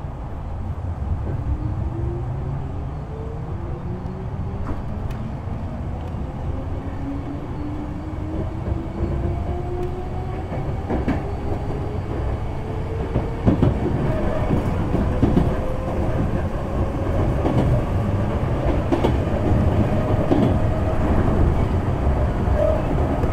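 Kintetsu 6020-series electric train heard from inside the passenger car, pulling away from a station: the traction motor and gear whine rises steadily in pitch as it gathers speed over a low running rumble. From about halfway through, the wheels clack over rail joints more and more often.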